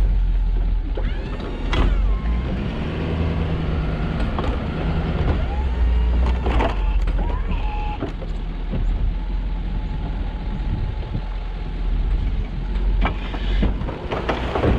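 Plow truck's engine running steadily, with several sharp clanks and a few short squeaks from the truck and plow.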